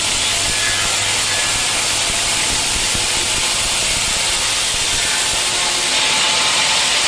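Sawmill blade cutting through a teak log, a loud steady hissing rasp that turns harsher about six seconds in.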